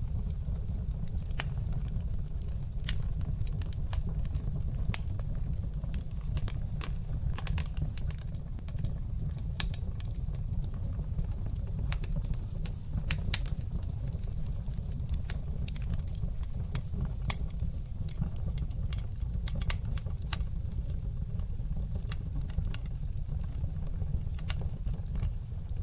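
Wood fire burning in a fireplace: a steady low rumble of flames with irregular sharp crackles and pops several times a second, a couple of louder pops in the middle.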